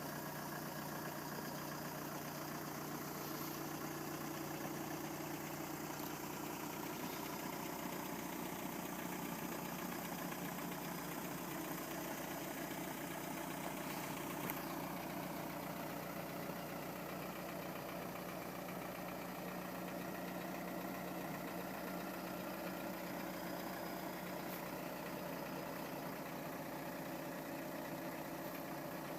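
Police car's engine idling steadily.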